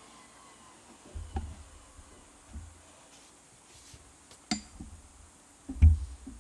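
Several separate knocks and light clinks of hard parts being handled and set down on the espresso machine's grinder, the loudest near the end.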